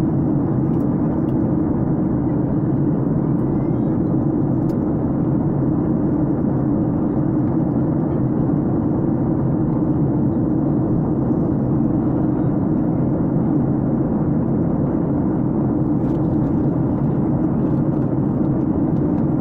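Steady engine and airflow noise heard inside the cabin of a passenger airliner, an even low rumble that does not change.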